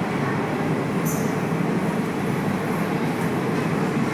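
Indian Railways train running: a steady rumble of the moving train, with a brief high squeak about a second in.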